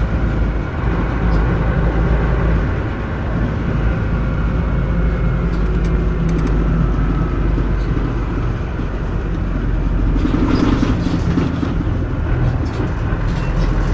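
Interior running sound of a Mitsubishi Fuso KC-MP317M New Aero Star city bus under way: the V8 diesel engine drones low with road noise, its note shifting a few times as the bus drives. A brief rush of noise comes about ten seconds in.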